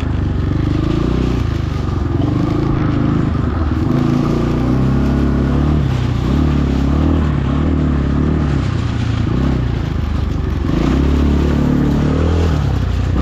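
Trailmaster TM33 Chinese dirt bike engine running as it is ridden along a trail, its pitch rising and falling with the throttle.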